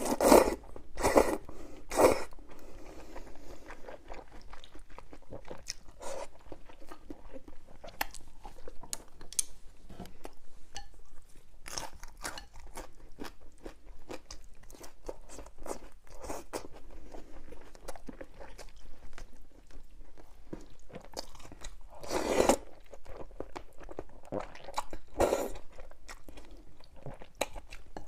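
Close-miked eating of crisp food: crunchy bites and chewing. There are a few loud crunches in the first two seconds and again about three quarters of the way through, with steady quieter chewing between them.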